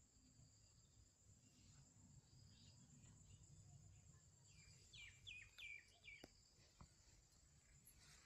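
Near-silent outdoor ambience with a steady faint high hiss. About five seconds in, a small bird gives a quick run of four short falling chirps.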